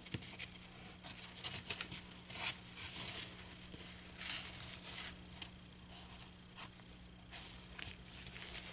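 Fabric and a styrofoam block being handled and worked, with irregular rustling and scraping noises.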